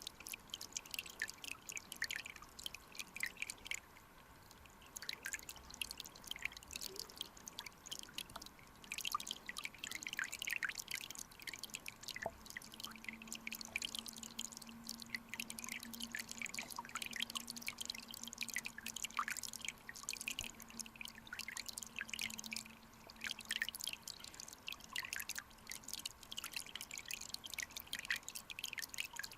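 Clear mountain stream water trickling and dripping, with many small irregular pops and clicks of water. A faint steady low hum runs through the middle stretch.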